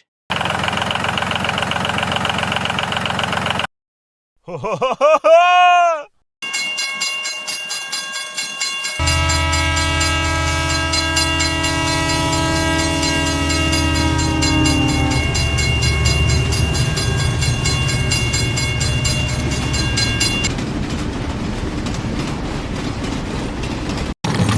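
A few short separate sounds, then a train horn sounding as a long chord over a low rumble, sagging slightly in pitch before it stops. A rumbling continues after it.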